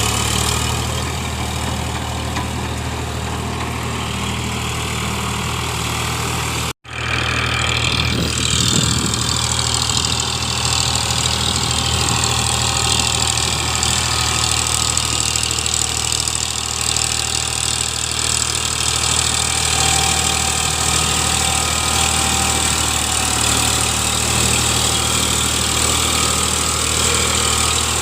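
Eicher 551 tractor's diesel engine running steadily at idle. The sound drops out for an instant about seven seconds in, then carries on unchanged.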